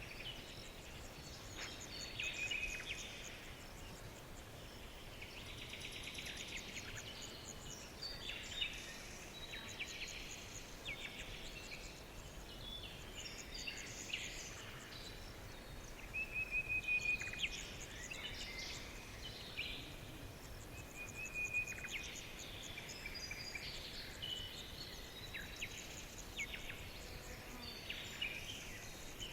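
A chorus of small songbirds chirping and trilling, many short overlapping calls with a few brief whistled notes, over a faint steady background hiss.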